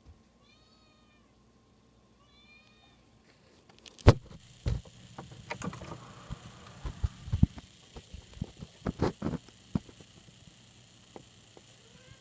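A domestic cat meows twice, two short arched calls in the first two seconds. From about four seconds in comes a run of irregular knocks, thumps and rustling, with the loudest knock just after four seconds.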